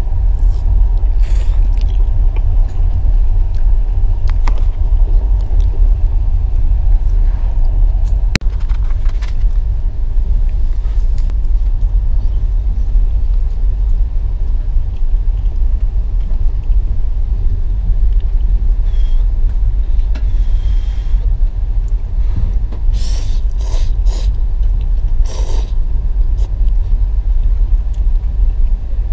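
Passenger train running, a steady low rumble heard from inside the carriage compartment, with a few short noises about three-quarters of the way through.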